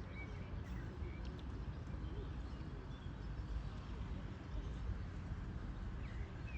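Outdoor pond-side ambience: a steady low rumble with a few faint, short bird chirps scattered through it.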